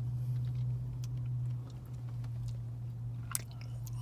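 A person chewing and biting food close to the microphone, with a few small clicks and crunches, over a steady low hum.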